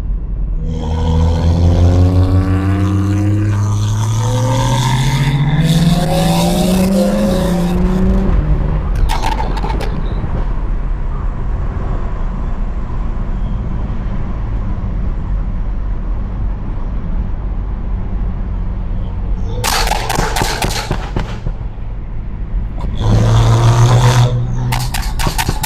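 BMW 335i's N55 turbocharged inline-six heard through an exhaust microphone, pulling away from a light: the exhaust note climbs steadily in pitch for several seconds, then falls back and settles into steady cruising. Near the end the exhaust briefly swells louder again.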